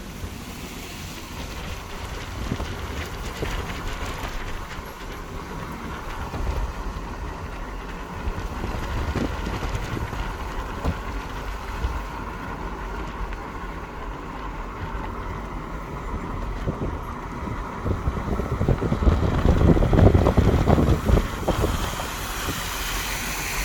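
Vehicle on the move: steady road and engine rumble with wind noise on the microphone, growing louder for a few seconds near the end.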